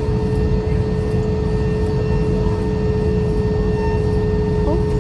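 Steady engine drone of a vehicle in motion: a deep rumble with a constant, unchanging whine over it.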